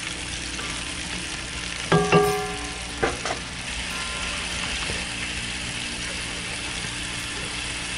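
Root vegetables sizzling steadily in hot olive oil in a cast-iron Dutch oven, browning before the lid goes on. A wooden spoon stirs them, with a brief ringing knock about two seconds in and a smaller one about a second later.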